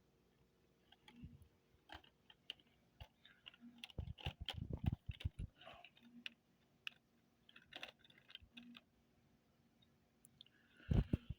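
Model railway cars being handled and coupled on the track: scattered small clicks and knocks, with a cluster of louder knocks about four to five seconds in and again near the end.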